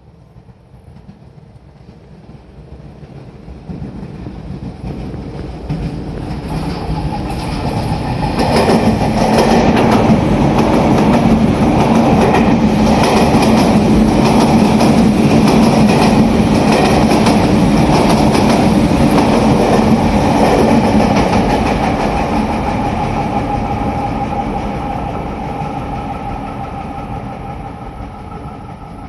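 Sotetsu electric commuter train running past close by: its wheels clack rhythmically over the rail joints under a steady motor hum. The sound builds over the first eight seconds, stays loudest for about twelve seconds, then fades away.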